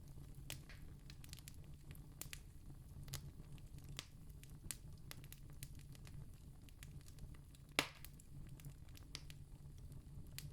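Campfire crackling, with many small scattered pops and one sharper, louder pop about three-quarters of the way through, over a steady low rumble.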